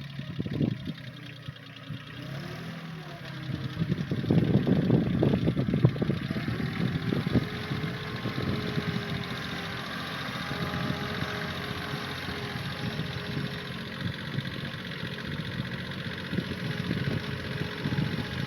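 An engine running steadily, louder for a few seconds about four seconds in.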